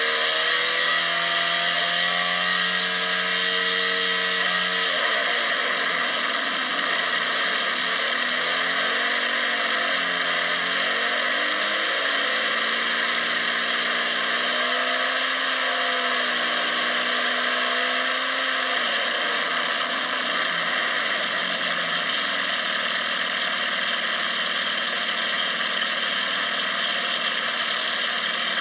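Austin-Healey 100S four-cylinder engine with a Weslake cylinder head and twin Weber carburettors, running on an engine dynamometer. Its pitch holds steady at first, drops about five seconds in, then rises and falls over the next fifteen seconds before evening out. A constant hiss runs over it.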